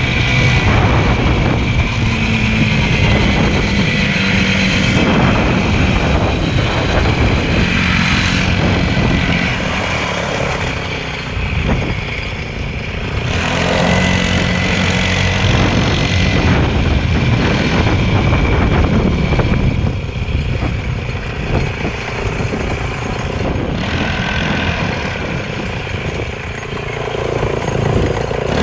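Motorcycle engine running, its pitch shifting up and down several times with the revs, over a steady rushing noise.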